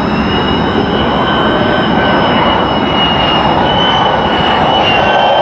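F-35A fighter jet's F135 turbofan engine running: a loud, steady rushing noise with a high, steady whine on top, growing slowly louder.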